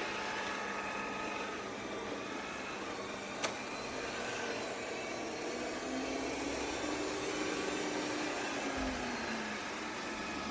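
Yeedi M12 PRO+ robot vacuum running steadily, with a single sharp click about three and a half seconds in. A humming motor tone comes in about six seconds in and glides down and fades about three seconds later.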